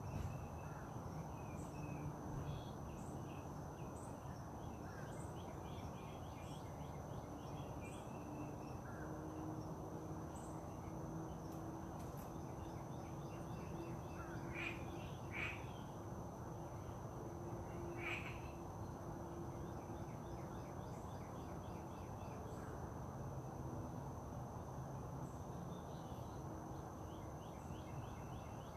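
Outdoor nature ambience: a steady high insect drone with scattered bird chirps and a few louder bird calls about halfway through, over a low background rumble.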